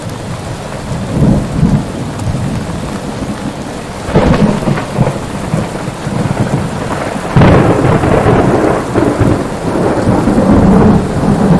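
Steady rain with rolling thunder. Rumbles swell about a second in and again around four seconds; a louder one starts suddenly past the middle and rolls on for several seconds.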